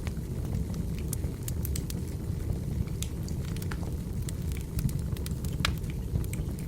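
Burning firewood crackling: a steady low rush from the fire with irregular sharp pops and snaps, one louder snap late on.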